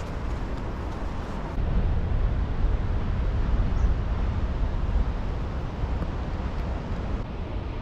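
Wind buffeting the microphone outdoors, a steady low rumble that rises a little about a second and a half in.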